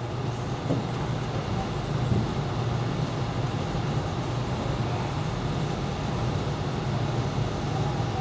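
Ruud GPN gas furnace's indoor blower running steadily on its low cooling speed, a continuous low whoosh of air and motor hum, as it is run for a static pressure test.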